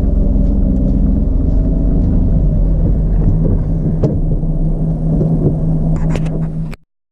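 Daihatsu Hijet Jumbo kei truck driving on a rough unpaved road: steady low engine and road rumble with a droning tone, and knocks and rattles about four and six seconds in. The sound cuts off suddenly near the end.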